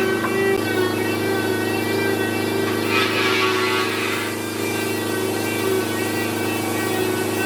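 A machine running steadily with a constant hum, a swell of hiss coming and going about three seconds in.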